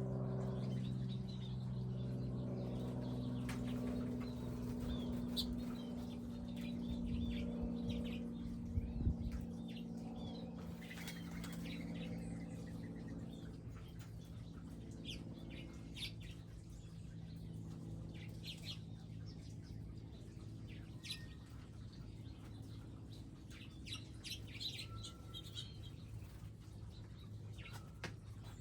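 Small wild birds chirping at a garden feeding area, short high calls scattered throughout, with wing flaps. Under them a low steady hum that fades away over the first half, and a brief low thump about nine seconds in.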